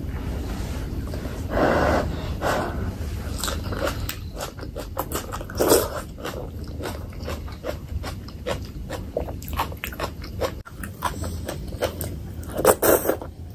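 Close-miked eating: biting and chewing soft, fatty pork curry and rice, with wet, sticky mouth smacks and many small clicks. The louder bites come about two seconds in, around six seconds, and near the end.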